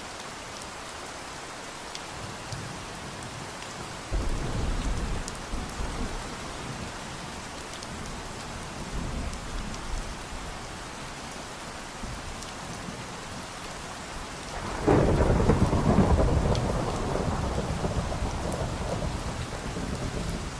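Steady rain falling, with thunder twice: a low rumble starting suddenly about four seconds in, and a louder clap about fifteen seconds in that slowly fades.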